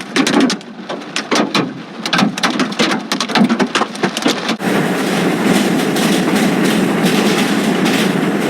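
Hailstones striking hard surfaces in a dense, irregular clatter of sharp hits, then, after a sudden change about four and a half seconds in, the steady roar of a heavy downpour.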